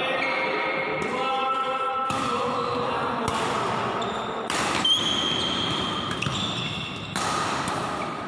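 Badminton rally: rackets strike the shuttlecock with sharp hits, four of them a second or two apart.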